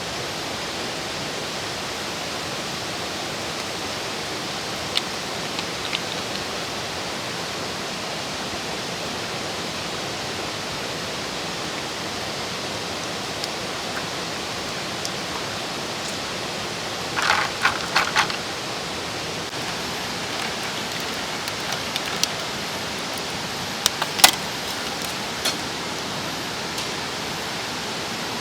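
Mountain stream rushing steadily, with a few sharp clicks and knocks: a quick cluster just past the middle and another pair a few seconds later.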